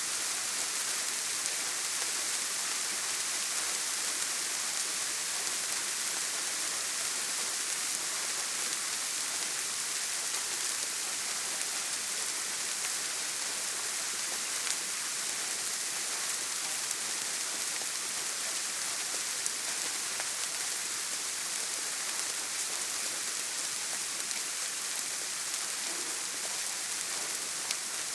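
Steady heavy rain on a tin roof: an even hiss with scattered drop ticks.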